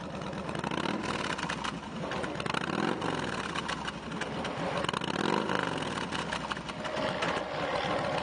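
Kawasaki Vulcan 2000's big liquid-cooled V-twin, breathing through a straight exhaust, idling and revved up and back down twice, about 3 seconds and 5 seconds in.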